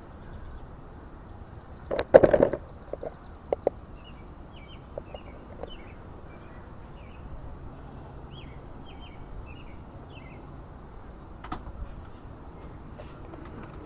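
Steady wind noise ahead of a severe thunderstorm, with a cluster of sharp knocks about two seconds in and a few more soon after, and faint bird chirps through the middle.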